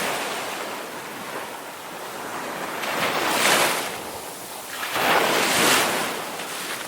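Ocean surf: waves washing in and drawing back, with two louder surges about three and five seconds in, each swelling and fading.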